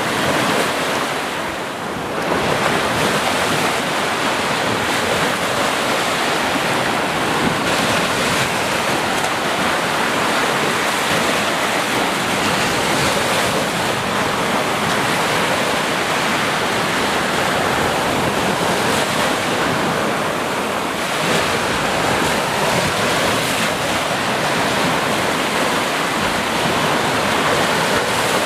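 Sea waves washing onto a shore in a continuous rush of surf, swelling and easing slightly, with wind noise mixed in.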